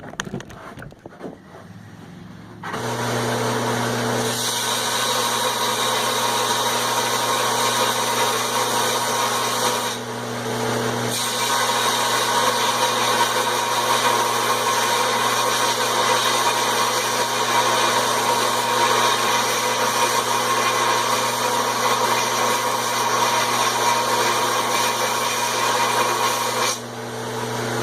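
Electric sander motor starting about three seconds in and running with a steady hum, while welds on a small steel piece are sanded down against the abrasive. The grinding noise dips briefly about ten seconds in and again near the end.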